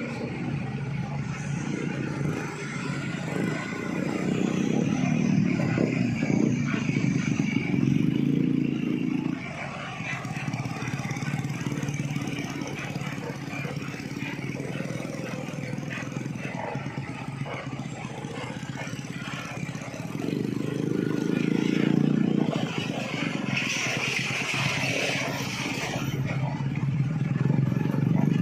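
Heavy truck diesel engines labouring up a steep climb, swelling louder twice as trucks pull close by. A burst of hissing noise comes about three-quarters of the way through.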